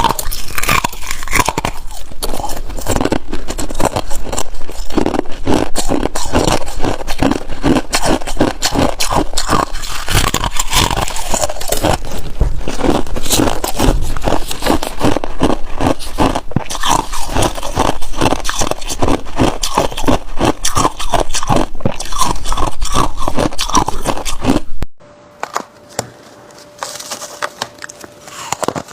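Ice being bitten and chewed close to the microphone: a dense run of sharp crunches and cracks that stops abruptly about twenty-five seconds in. A quieter stretch with a faint steady tone and a few small clicks follows.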